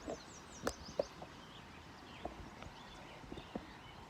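Quiet outdoor ambience with scattered light taps and knocks, and a few birds chirping briefly near the start.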